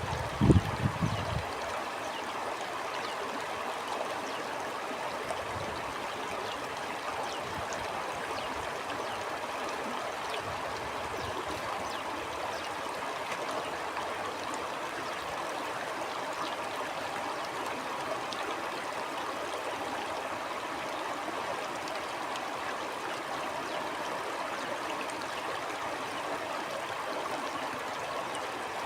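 Stream of water flowing steadily over rocks, with a brief low rumble about half a second in.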